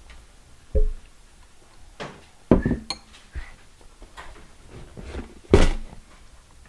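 Several separate knocks and clinks of glasses and kitchenware being handled, the loudest near the end.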